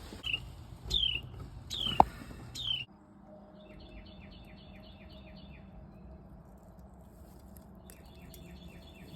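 House wrens calling: four sharp chirps that each drop in pitch over the first three seconds, with a sharp knock about two seconds in. Then come two runs of fast, evenly repeated chattering notes, about eight a second.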